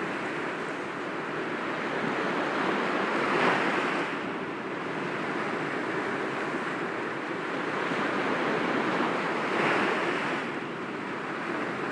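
Sea waves breaking gently against rocks, a steady wash of surf with two stronger breakers, about three and a half and nine and a half seconds in.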